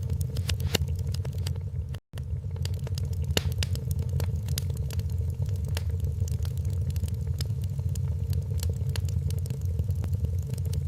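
Wood fire crackling in a fireplace: many sharp pops and snaps over a steady low rumble of the flames. The sound cuts out for an instant about two seconds in.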